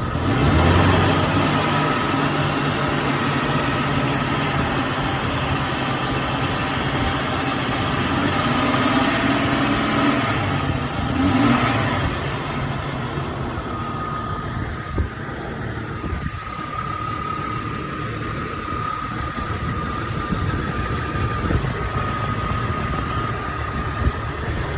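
2000 Jeep Cherokee engine running at idle as it warms up while its cooling system is being bled of air, steady and judged to sound pretty decent. A steady high whine rides over it, with a single click about fifteen seconds in.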